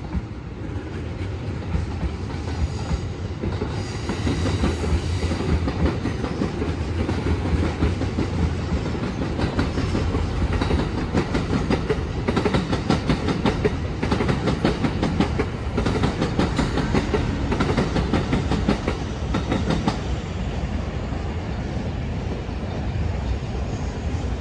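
Electric passenger trains running through a station's tracks, a JR West 221 series among them. A steady low rumble builds into a fast clickety-clack of wheels over rail joints and points through the middle, then eases off near the end as the trains pass.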